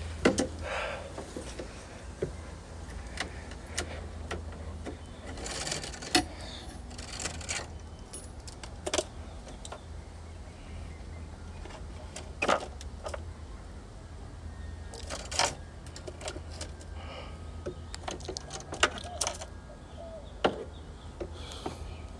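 Scattered clicks, light metallic rattles and rubbing as a replacement temperature sensor's wire is pulled through a heat pump cabinet, over a steady low hum.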